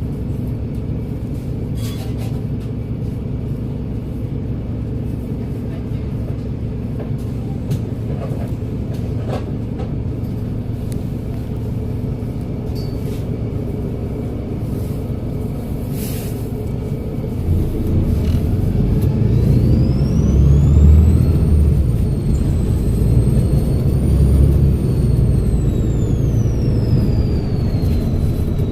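Volvo B7RLE bus's six-cylinder turbodiesel running steadily, then pulling harder about 18 seconds in, with its turbo whistle rising to a high steady whine, holding for several seconds and falling away near the end.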